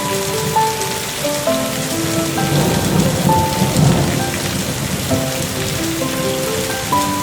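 Steady rain pattering, with a low rumble of thunder swelling in the middle and fading out after a second or two.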